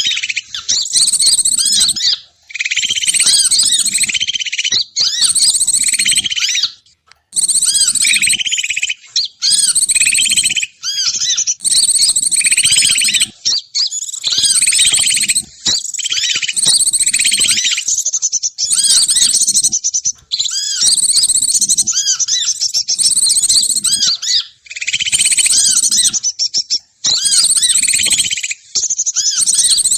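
Bird lure call: small songbirds chirping and trilling loudly and rapidly, in bursts of one to a few seconds with short breaks between them, played to draw wild birds down.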